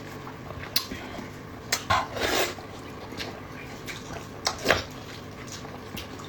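Close-up eating sounds: mouth noises of chewing with the scattered clicks of utensils against a bowl, a few short sharp sounds spread over the seconds.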